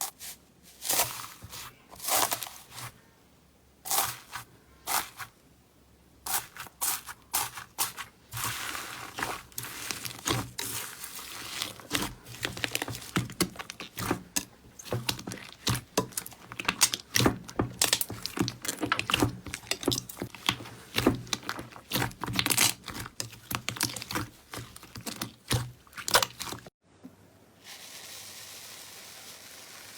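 Slime being squeezed and poked close to the microphone, giving dense, irregular crackles and pops that come thickest through the middle. About 27 seconds in it cuts to a steady soft hiss.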